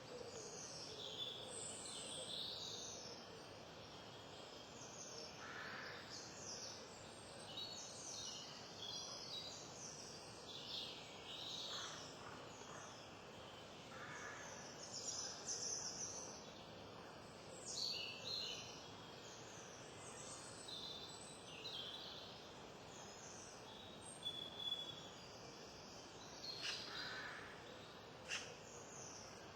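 Wild songbirds singing and calling over a steady background hiss, a scatter of short high chirps and warbled phrases throughout.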